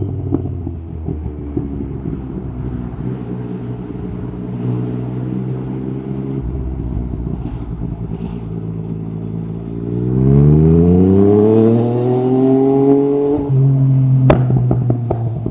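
Yamaha MT-09 SP's inline-three engine through an Akrapovic carbon exhaust, running at steady low revs, then revving up hard and louder about ten seconds in. Near the end the revs fall abruptly to a steady lower note, followed by a single sharp crack.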